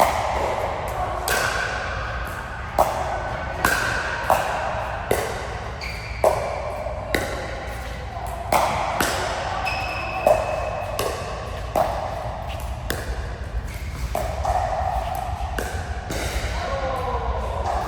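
A rally of racket strikes: a sharp hit with a short ringing ping comes roughly once a second, with echo from a large hall.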